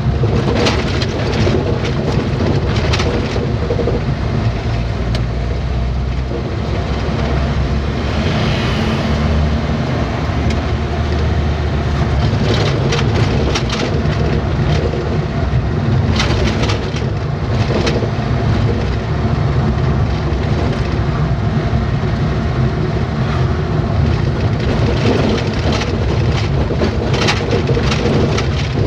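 Truck running along the road: a steady engine and road rumble, with scattered short rattles and knocks.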